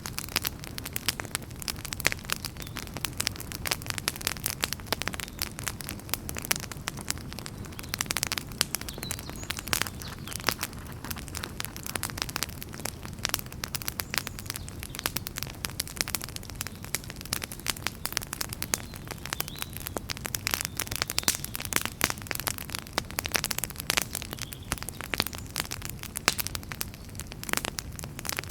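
Wood fire burning in a fireplace, crackling and popping continuously over a low steady rumble.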